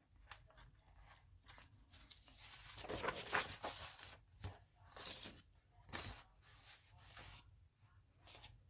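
Faint rustling and crinkling of stiff manila-folder journal pages being handled and turned, in several separate rustles, the longest and loudest about three seconds in.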